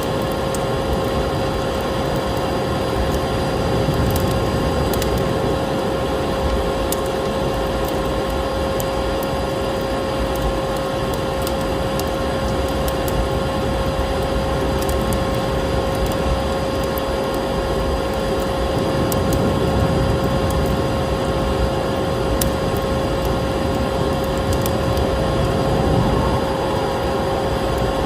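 Vacuum cleaner running steadily, its motor holding one constant whine over a steady rush of air, mixed with the crackling and scattered pops of a wood fire burning in a fireplace.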